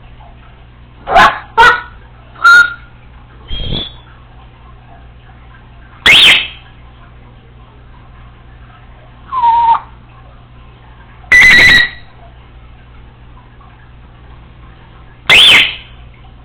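Congo African grey parrot calling to herself: about eight short, loud whistles and squawks spaced a few seconds apart, several with a clear beep-like tone.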